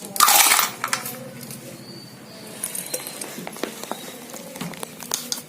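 Hands handling wire and washing machine parts: a short loud scraping rustle near the start, then scattered small clicks and taps.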